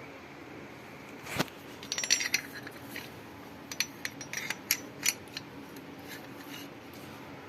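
Metal tools and parts being handled, clinking and tapping together: one sharp knock about a second and a half in, then a run of light ringing metallic clinks and taps over the next few seconds.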